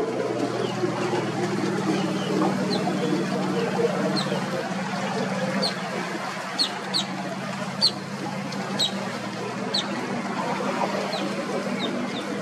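A bird repeating short, high, downward-sliding chirps about once a second, over a steady low engine-like hum.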